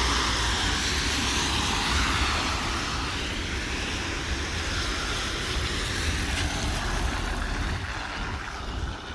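Airplane passing overhead, a steady rushing engine noise with a slowly sweeping tone that fades away toward the end.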